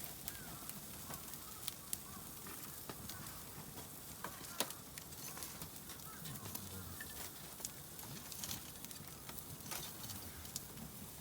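Wood campfire crackling, with scattered sharp pops and one louder snap about four and a half seconds in.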